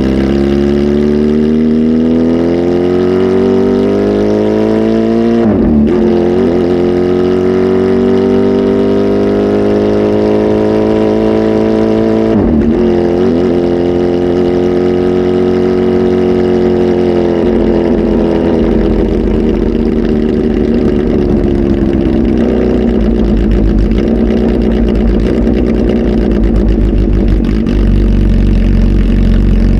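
Kawasaki ZH2 SE's supercharged inline-four with a flash tune and full aftermarket exhaust, running loud. The engine note climbs steadily, dips sharply for a moment about six seconds in and again about twelve and a half seconds in, then eases off after about seventeen seconds into a lower, steady, rougher note.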